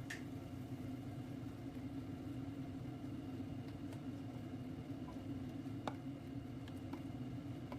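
A steady low mechanical hum, with a few faint light clicks scattered through it.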